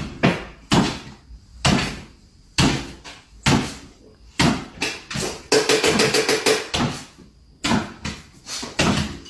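Repeated knocking or banging, roughly one knock a second, with a quick rattling run of knocks a little past halfway.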